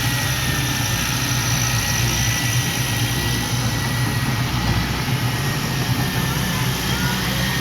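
Heavy earthmoving machine's diesel engine running steadily at low revs, with a faint high whine over a deep, even rumble.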